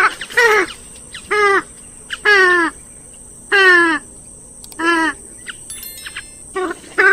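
Grey-headed swamphen calling: a string of about eight short calls, each falling in pitch, coming roughly once a second.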